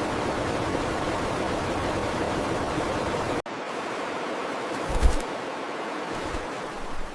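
Steady rushing of flowing water that cuts off abruptly a little past three seconds in, leaving quieter forest ambience. A loud low thump comes about five seconds in, with fainter low bumps after it.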